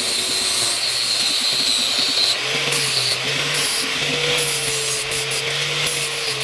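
Electric abrasive tool, such as a grinder, working metal: a steady rough hiss over a motor hum whose pitch wavers slightly under load.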